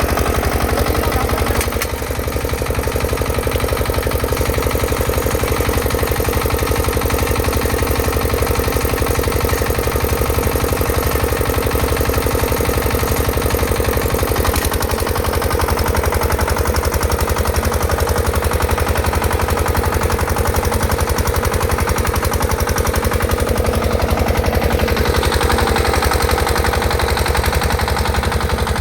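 6 hp Field Marshal single-cylinder diesel engine on a rotavator, running steadily with an even, rapid beat; its note shifts slightly about halfway.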